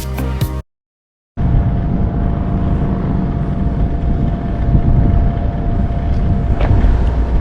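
Background music stops abruptly, and after a brief silence comes a motorcycle running at road speed with steady wind rushing over the microphone, carrying a faint steady whine.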